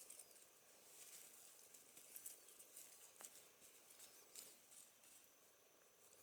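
Near silence with faint, scattered light ticks and rustles.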